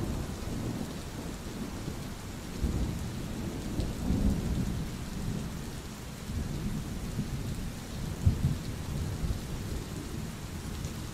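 Rain falling steadily, with a low rumble of thunder underneath that swells and fades several times.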